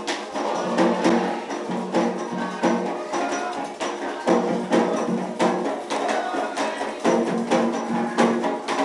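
Candomblé ritual music: hand drums beaten in a steady rhythm with sharp, clacking percussion strikes, under held sung notes.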